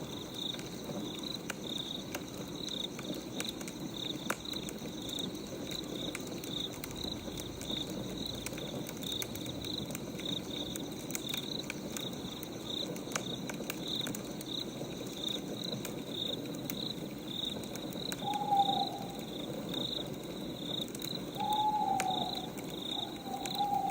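Night ambience of a crackling wood fire with scattered pops, and crickets chirping steadily about twice a second. Near the end an owl hoots three times.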